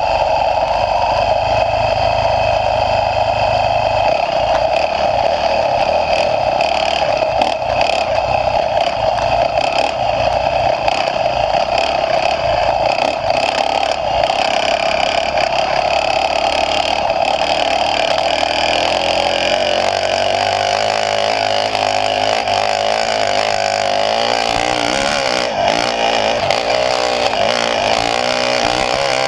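Motocross bike engine running hard under a rider, pitch rising and falling as the throttle is worked, with more frequent swings near the end.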